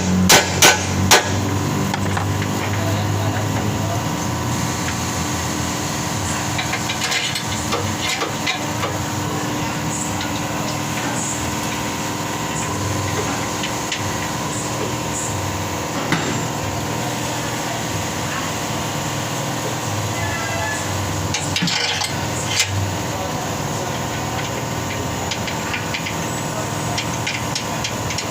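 A few quick hammer blows in the first second or so, then a steady mechanical hum with scattered clicks and knocks of tool work.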